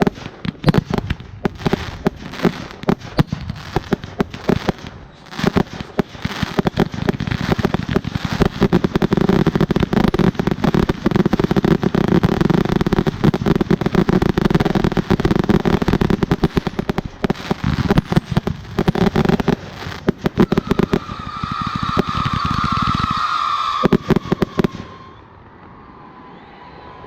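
Volcano fireworks (ground fountains) burning, with dense continuous crackling and sputtering. A steady tone comes in near the end, and the noise cuts off suddenly about 25 seconds in as the fountain burns out.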